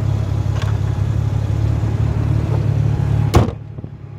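Nissan 300ZX twin turbo's 3.0-litre V6 idling steadily, then the hood slammed shut a little over three seconds in; after the slam the engine sounds quieter and duller.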